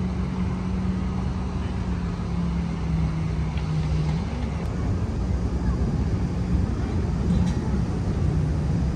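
Steady low drone of a running engine, with a constant hum and a low rumble beneath it.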